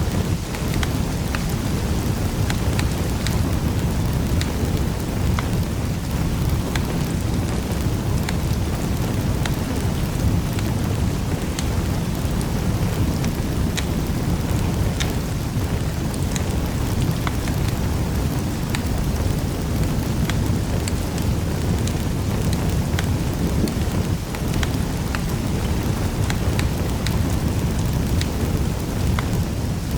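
Wood fire crackling in a fireplace: many small sharp pops and snaps scattered over a steady low rumble of the flames.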